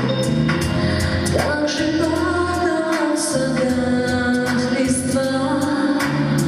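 Live pop band playing a song, with sung melody lines over a steady drum beat.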